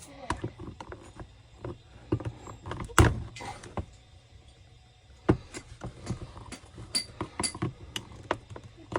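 Irregular clicks, taps and knocks of small plastic and metal parts being handled as a cut-off saw's recoil starter is taken apart, with the loudest knocks about three seconds in and again just past five seconds.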